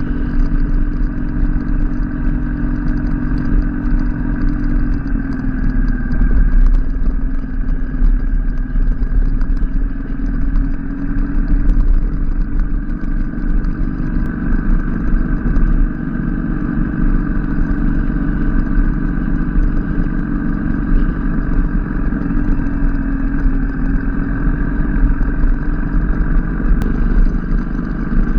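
Motorcycle engine running under way, heard from on the bike over road and wind noise. Its note drops about five seconds in and then climbs gradually as the revs change.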